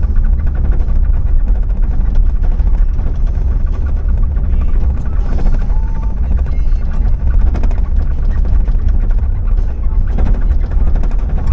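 Vehicle driving: a loud, steady low rumble of engine and road noise with a fine rattle running through it.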